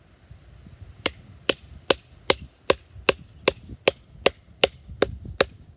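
Batoning: a tomahawk handle used as a baton strikes the spine of a small Scandi-ground fixed-blade knife about a dozen times at a steady pace, roughly two and a half blows a second, driving the blade straight down into the wood. The blows begin about a second in.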